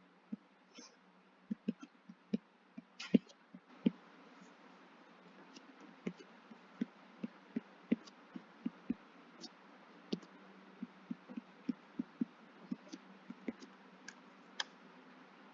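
A series of light, sharp taps and clicks at irregular intervals, sparse at first and about two a second from around the middle on, over a faint steady hum.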